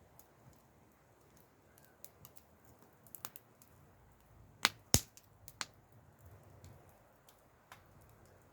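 Wood fire crackling: scattered sharp pops and snaps, the loudest two close together about five seconds in, over a faint low rumble.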